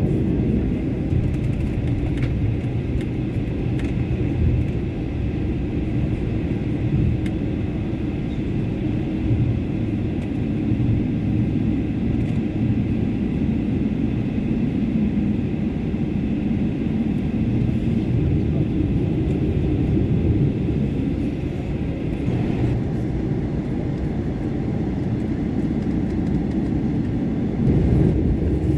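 Steady low rumble of a Boeing 777-300 taxiing, heard inside the cabin. The engine and rolling noise grow a little louder near the end.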